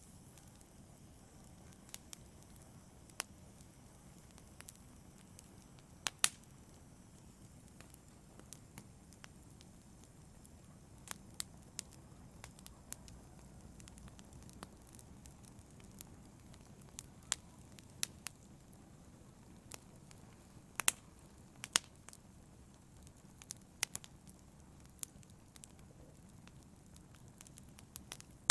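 Wood fire burning in a fireplace: a low steady rumble with irregular sharp crackles and pops, a few louder snaps among them.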